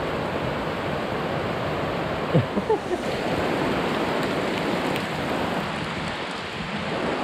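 Heavy rain pouring straight down, a steady dense hiss. A few brief higher sounds rise above it about two and a half seconds in.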